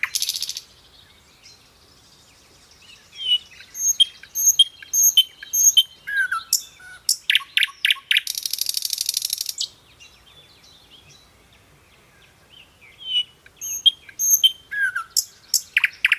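Songbirds singing: phrases of short high chirps and slurred whistles with rapid trills, the same phrase coming back twice, with a pause of about three seconds in the middle.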